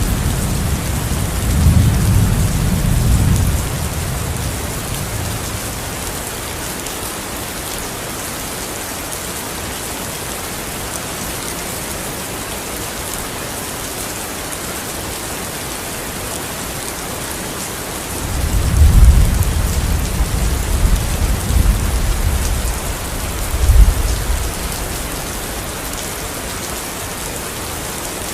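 Steady heavy rain falling, with rolls of thunder rumbling at the start and again about two-thirds of the way through, the loudest claps near 19 and 24 seconds in.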